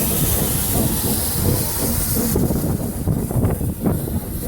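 Steam locomotive hissing loudly over a low rumble; the hiss dies away about two and a half seconds in, leaving the rumble.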